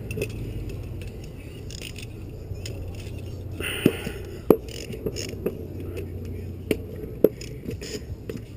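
Scattered clinks and knocks of hand tools and metal motorcycle parts being handled, with a short scrape about four seconds in, over a steady low hum.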